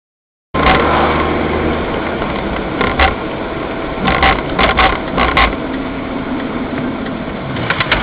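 Vehicle engine and road noise that starts abruptly about half a second in. Several sharp knocks or rattles come in short clusters around the middle.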